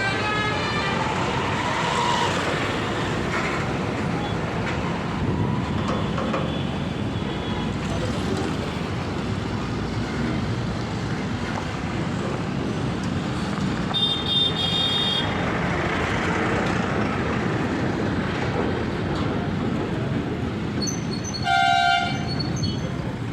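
Steady vehicle rumble with two short horn blasts, the second, near the end, the louder.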